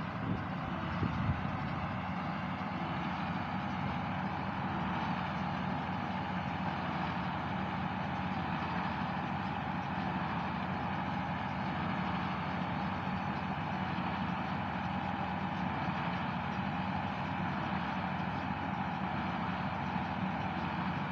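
Farm tractor engine running at a steady speed, with a few short knocks near the start.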